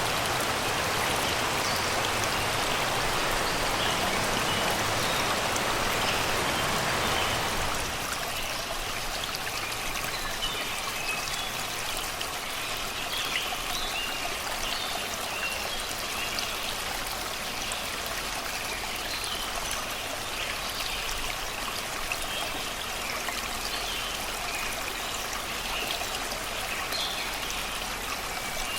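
Shallow river running over rocks and stones, a steady babble of flowing water. About eight seconds in the rush becomes lighter and thinner, and birds sing over it.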